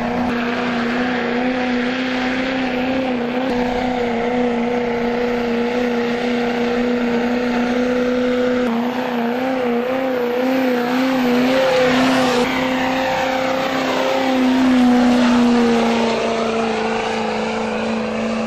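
Modified 6.6 L Duramax V8 turbodiesel in a 2008 Chevy pickup held at high revs under full load while pulling a weight-transfer sled. The engine note is steady and loud, wavers briefly about halfway through and eases a little near the end.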